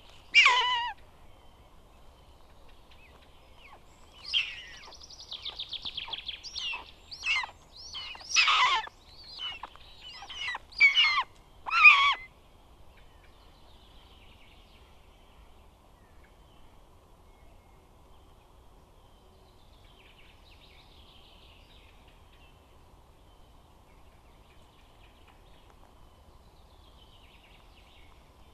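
Buzzard calling: a loud call right at the start, then a string of about ten sharp calls between about 4 and 12 seconds in, each falling in pitch, with a rapid stuttering run of notes among the first. Only faint background sounds follow.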